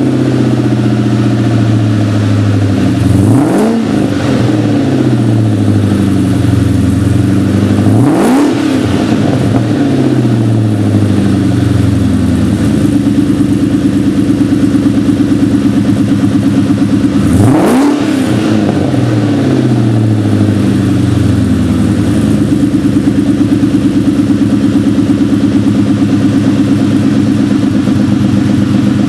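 2003 SVT Cobra's supercharged 4.6-litre V8 idling through a Magnaflow cat-back exhaust with a MAC Prochamber crossover pipe. It is revved in three quick throttle blips, at about three and a half, eight and seventeen and a half seconds in, each rising sharply in pitch and settling back to idle.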